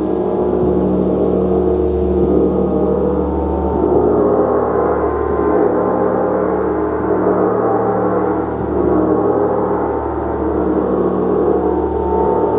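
Gong played continuously: a dense, sustained wash of many ringing overtones that swells and eases gently without a break.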